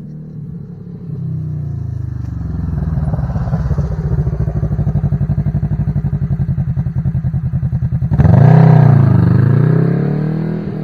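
Kawasaki Teryx KRX 1000's 999 cc parallel-twin engine running through an MBRP slip-on muffler under throttle. The exhaust note builds about a second in, holds a steady, pulsing drone, then turns suddenly louder about eight seconds in, its pitch dipping and rising again.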